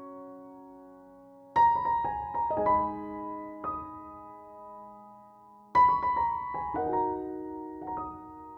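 Background piano music: soft struck notes and chords that ring and fade, with louder chords about a second and a half in and again near six seconds.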